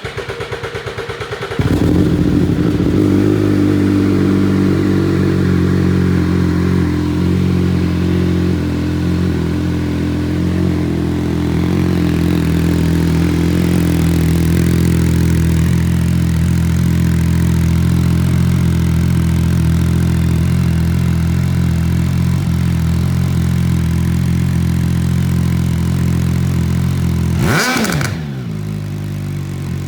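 MV Agusta three-cylinder motorcycle engine through a Fresco titanium exhaust, idling for a moment and then held at a steady raised rpm for a sound-level reading. Near the end the revs drop back, then there is a quick rev blip.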